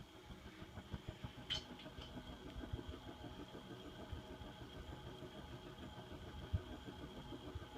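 TAT industrial ceiling fan running at medium-high speed: a steady pulsing hum with a faint high whine, its motor bearings starting to make a little noise. A single sharp tick about a second and a half in.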